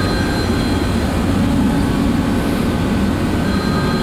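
Steady mechanical drone with strong low rumble and a few faint, thin high whining tones held throughout, like nearby machinery running continuously.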